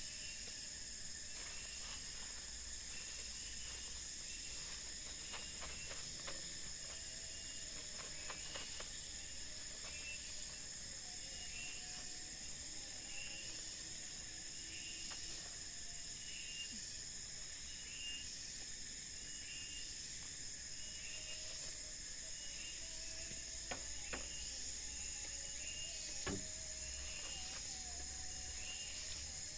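Forest ambience: insects keep up a steady high-pitched drone, while a short chirp repeats about every one to one and a half seconds. Faint lower calls and a few soft clicks come and go.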